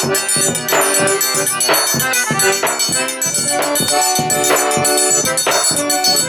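Live forró pé-de-serra played instrumentally: an accordion holds the tune in sustained chords over a drum stroke about once a second, with jingling percussion on top.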